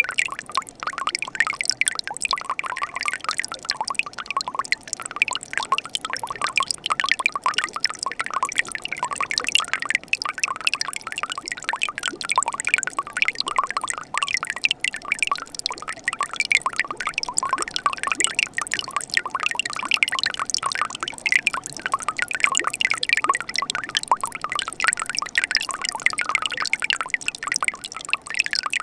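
Mountain stream in winter running among ice: steady splashing and trickling water with many small quick gurgles.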